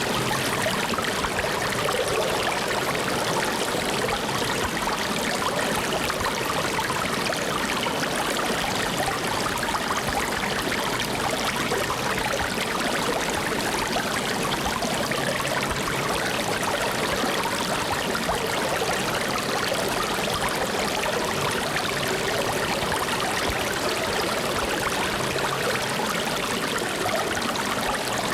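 Flowing water running steadily, an even rushing hiss with no breaks or changes.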